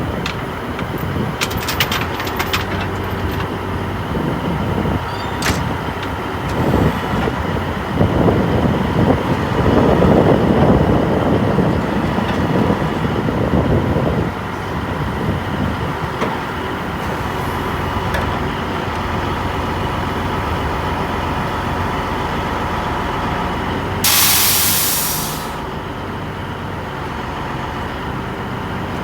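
Truck engine running steadily, louder and rougher for several seconds in the first half. About two-thirds through comes a short, loud burst of air hiss that trails off, as from air brakes releasing.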